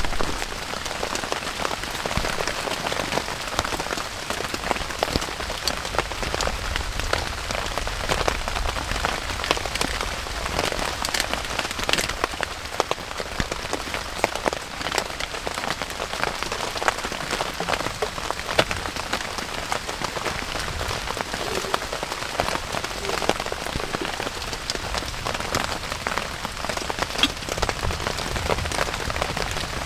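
Steady rain falling, with many separate drops ticking on surfaces close by.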